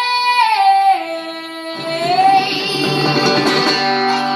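A female singer holds a long, wordless closing note that steps down in pitch about a second in. Strummed string chords join her about two seconds in, as a live song ends.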